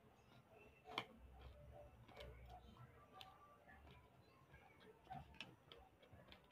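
Faint sounds of a person chewing fried fish, with a few sharp clicks and ticks, the loudest about a second in.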